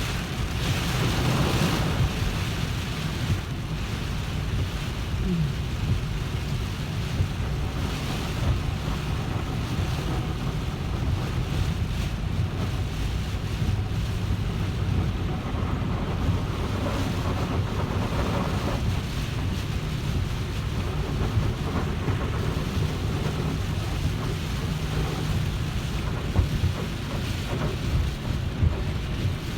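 Steady low rumble with a hiss over it: road and wind noise of a car driving in the rain.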